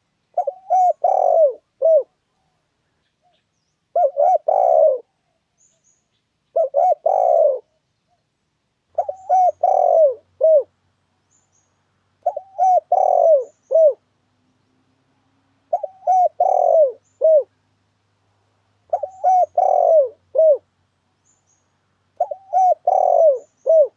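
Spotted dove (tekukur) cooing, a lure call used to trap spotted doves. A phrase of four or five coos, about a second and a half long, repeats about every three seconds, eight times.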